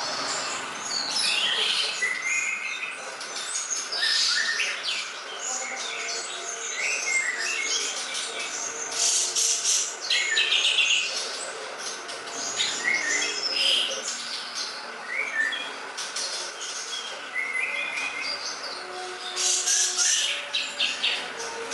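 A songbird singing continuously: rapid, varied high chirps and short whistled phrases in quick succession, with a few lower held notes underneath.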